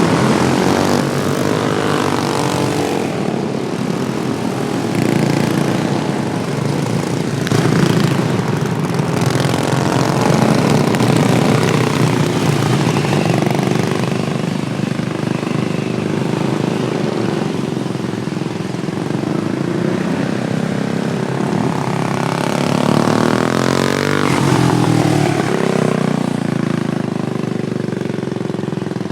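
Several modified Wheel Horse racing lawnmowers running on track, their engines' pitch rising and falling as they go past.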